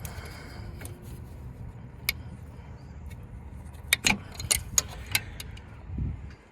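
Sharp clicks and clinks of tools and connectors being worked while the alternator wiring is disconnected: one click about two seconds in, then a quick run of several clicks about four to five seconds in. A steady low hum sits underneath and drops away at the very end.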